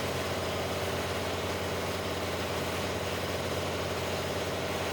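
Air compressor running steadily, an even machine hum with a low drone and a few steady tones that do not change.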